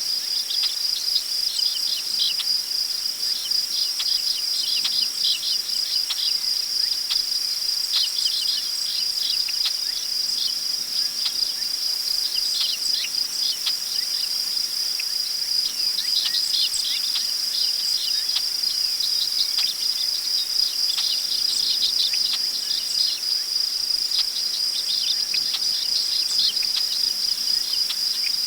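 Crickets trilling in a steady, high-pitched chorus, with many short bird chirps scattered over it.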